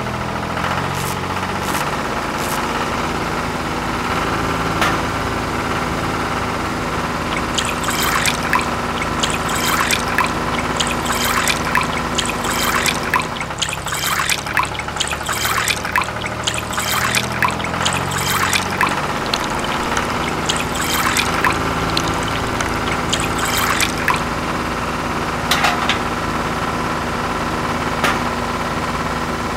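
Small electric motor of a miniature model grape crusher running steadily, with many sharp clicks as grapes are crushed, densest from about eight seconds in, and juice trickling out.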